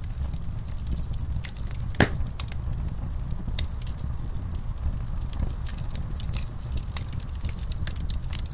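Wood logs burning in a fireplace: a steady low rumble of flame with irregular crackles and pops, one louder pop about two seconds in.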